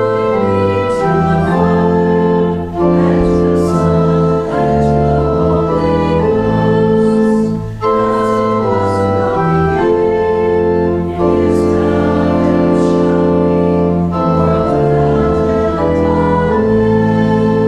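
Church organ playing sustained chords, accompanying a congregation singing a liturgical response. The chords change every second or two, with brief dips between phrases.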